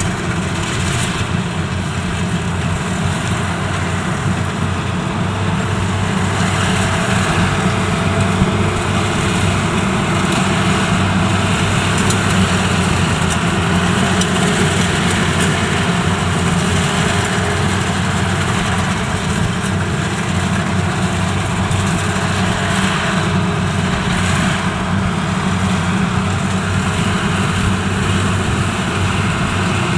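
Yanmar YH85 rice combine harvester's diesel engine running steadily, a continuous low drone with machinery noise and no breaks.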